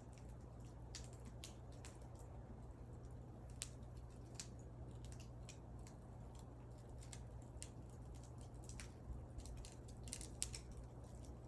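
Burning wood crackling, with small irregular pops and snaps and a sharper pop a few seconds in and again near the end, over a faint low steady rumble.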